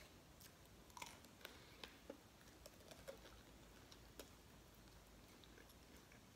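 Near silence with a few faint scattered clicks and smacks: quiet mouth sounds of biting and chewing a chicken wing.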